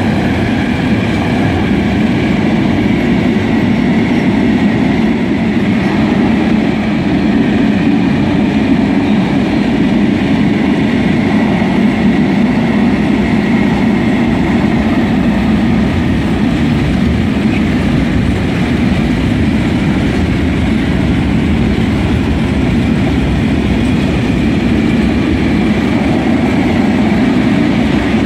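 Freight train of rail tank wagons rolling past close by: a steady, loud rumble of steel wheels on the rails that holds at an even level throughout.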